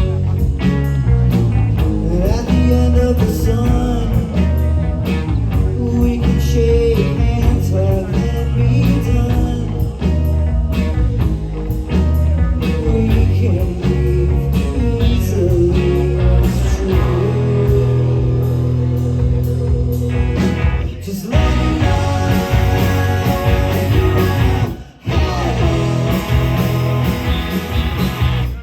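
Live rock band playing loud, guitar-driven psychedelic blues rock, with a brief stop about 25 seconds in before the band comes back in.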